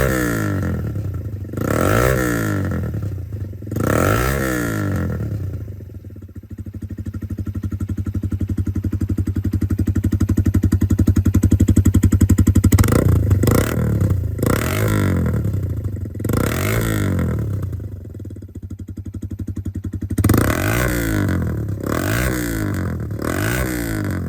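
Suzuki GN125-2F's single-cylinder four-stroke engine through a modified muffler with its end baffle fitted, revved in quick blips that rise and drop back to idle. In the middle it is held at steady revs for several seconds, growing louder, then it is blipped sharply several more times near the end.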